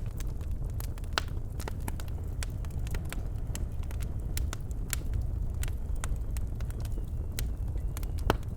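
Birchwood fire in a fireplace crackling: irregular sharp pops and snaps over a steady low rumble of the burning, with one louder pop near the end.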